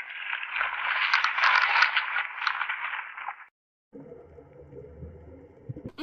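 Leaves and twigs rustling and crackling as a giraffe browses in a tree, for about three and a half seconds. After a short gap comes a quieter low rumble, and right at the end a goat kid starts to bleat.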